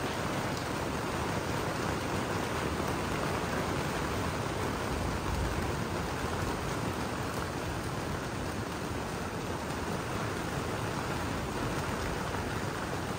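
Steady rain falling on the clear panels of a geodesic dome, heard from inside as an even, unbroken hiss.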